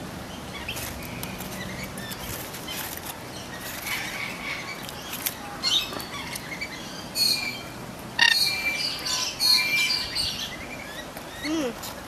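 Birds chirping in short, high bursts, bunched together from about seven to ten seconds in, over a low outdoor background.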